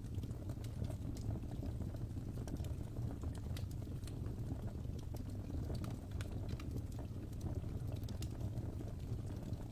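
Fire crackling in a fireplace: a steady low rumble of flames with irregular sharp pops and snaps scattered throughout.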